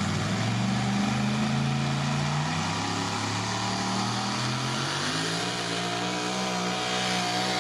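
Modified turbo-diesel pickup engine running hard, a steady loud note whose pitch sags and then climbs again about five seconds in.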